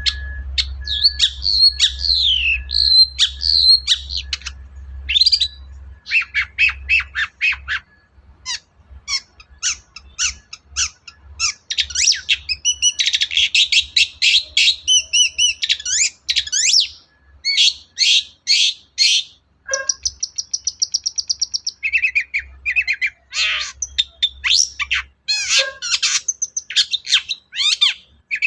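Long-tailed shrike (cendet) singing a fast, varied song: harsh chattering notes, quick whistled glides and a buzzy trill about twenty seconds in, mixed with calls it mimics from other birds.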